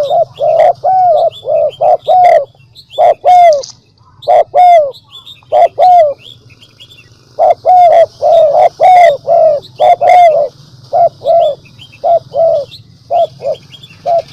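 Spotted dove cooing in quick runs of short, arched coos, with a pause partway through. Small high chirps and a steady low hum sit underneath.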